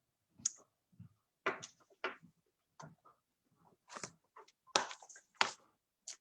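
Scattered light taps and clicks, about seven or eight of them at irregular spacing, from rubber-stamping supplies being handled on a craft table as a stamp is inked and pressed onto cardstock.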